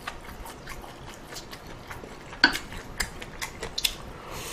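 Eating utensils clicking and scraping against a pot of ramen during a meal, in scattered short clinks, with a sharper clink about halfway through.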